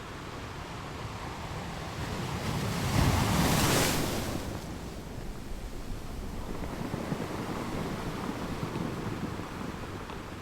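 Ocean waves on a beach: a wave builds and breaks, loudest about three to four seconds in, then its surf washes up the shore with a steady rushing.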